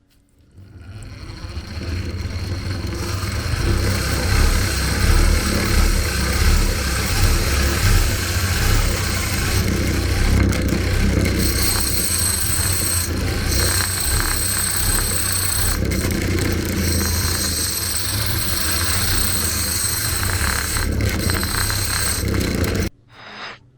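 Antique hand-cranked grinder being cranked: its gears and grinding wheel spin up over a couple of seconds and run steadily with a deep rumble and a high whine. The sound cuts off suddenly near the end.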